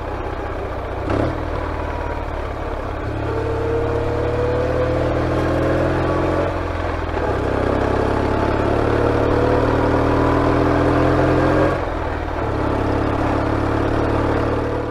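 1963 BMW R69S's 594cc air-cooled flat-twin engine running under acceleration. Its note climbs twice, dropping back at a gear change about six seconds in and again near twelve seconds, then holds steady. There is a short knock about a second in.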